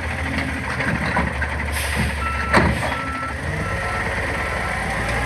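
Garbage truck's engine running low and steady, with a brief hiss and a sharp metallic clank about halfway through, after which the truck's backup alarm starts beeping at a steady pace, about one beep every 0.7 seconds.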